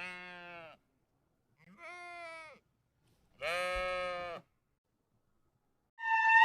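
A farm animal bleats three times, each bleat about a second long with short gaps between them, the third the loudest. Near the end a louder, different call with tones sliding up and down cuts in.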